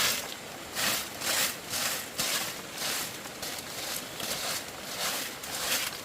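Rhythmic scraping strokes of a hand tool working bamboo, about two strokes a second, each a short rasping hiss.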